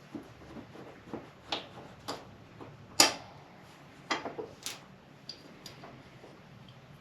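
Hand work on a motorcycle foot peg and its mounting pin: a series of short clicks and knocks, with one loud knock about three seconds in and a quick cluster of clicks about a second later.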